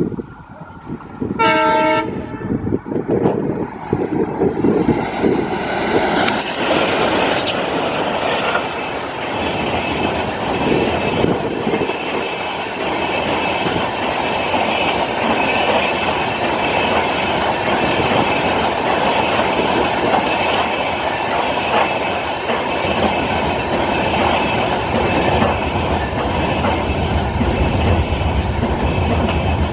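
A short, single blast of a diesel locomotive horn about a second and a half in, then a passenger train rolling past at speed: steady wheel-on-rail noise and clatter from its LHB coaches going by without a break.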